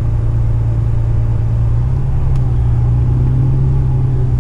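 Tipper truck's diesel engine running steadily, a low drone that rises slightly in pitch about two seconds in.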